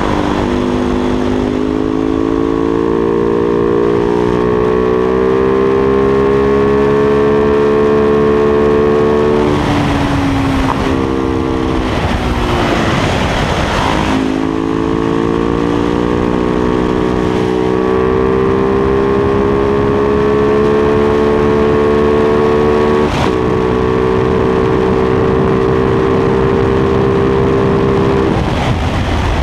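Supermoto motorcycle engine running at road speed, its pitch climbing slowly as it pulls, with wind rushing over the microphone. About ten seconds in the engine drops back, the wind noise swells, and then it pulls up again.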